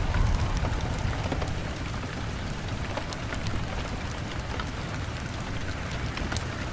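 Rain beating on a window: a steady wash of rain over a deep low rumble, with many scattered sharp ticks of drops striking. It is a little louder in the first second or so, then steady.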